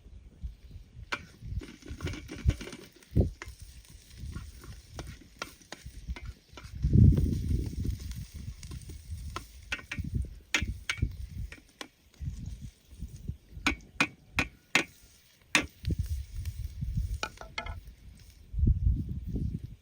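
Food-preparation sounds from cooking: a run of sharp clicks and taps of utensils against cookware, over a faint hiss, with dull low thumps now and then.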